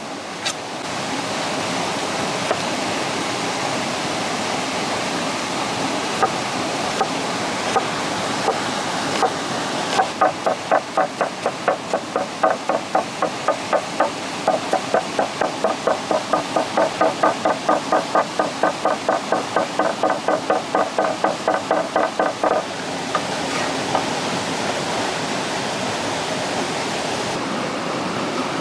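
Steady rushing of a waterfall or stream. From about ten seconds in until about twenty-two seconds, rapid even knocking at about four strikes a second sits on top of the water.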